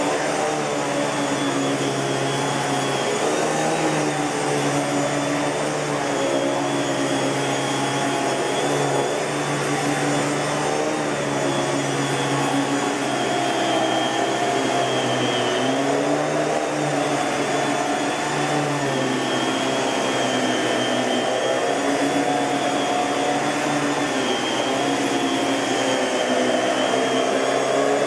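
Miele Blue Moon S658 canister vacuum cleaner running steadily, its motor tone wavering slightly up and down in pitch.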